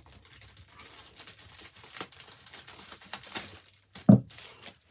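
Cellophane gift bag crinkling as it is handled, with one short, loud thump about four seconds in.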